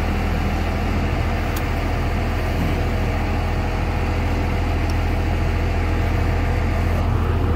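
2001 Dodge Ram 2500's 5.9 Cummins turbo-diesel running steadily through a 4-inch AFE exhaust, an even low drone with no change in revs.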